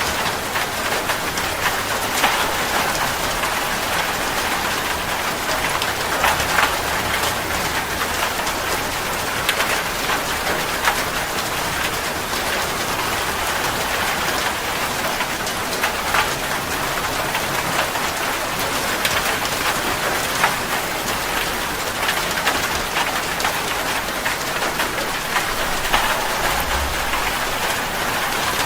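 Steady rain falling on a surface, a dense even hiss broken by frequent sharper spatters of individual drops.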